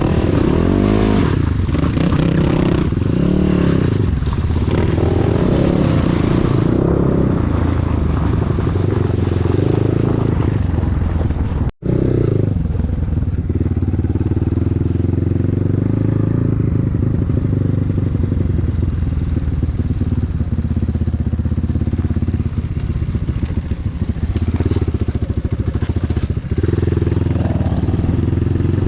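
Enduro motorcycle engine running while riding, its revs rising and falling again and again through the first dozen seconds. The sound drops out for an instant about twelve seconds in, after which the engine holds steadier revs with small rises and falls.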